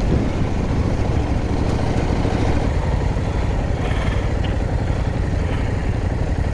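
Motorcycle engine running steadily at low speed, with a dense low rumble on the rider's microphone.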